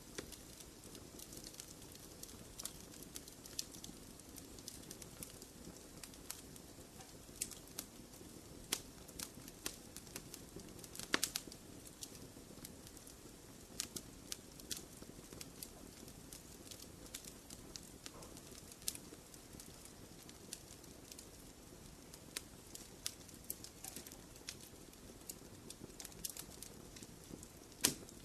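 Wood fire crackling in a fireplace: a soft steady rustle of flames with irregular sharp pops and snaps, a louder pop about eleven seconds in and another near the end.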